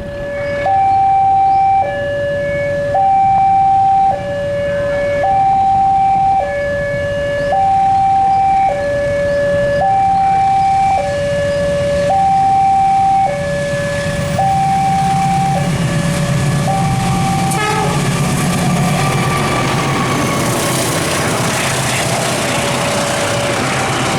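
An electronic two-tone warning alarm alternates between a lower and a higher tone, each held about a second. About two-thirds of the way in, a train's rumble swells into a broad rush of wheel and rail noise as it passes, with the alarm still sounding faintly beneath it.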